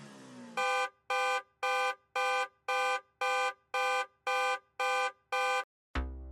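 Electronic countdown timer beeping ten times, about two identical beeps a second, marking the last seconds of the answer time. Soft background music plays underneath at the start, and a rising whoosh with a low rumble begins near the end.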